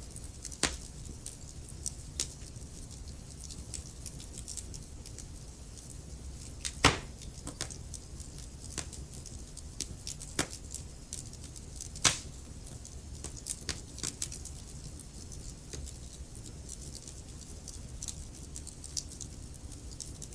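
Wood fire crackling: a low steady rumble of the flames with scattered sharp pops from the burning logs, the two loudest about seven and twelve seconds in.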